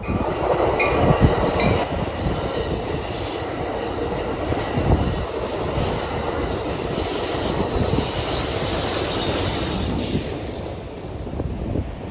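Train passing close by, its wheels running over the rails with a steady rumble. A short high wheel squeal comes about two seconds in.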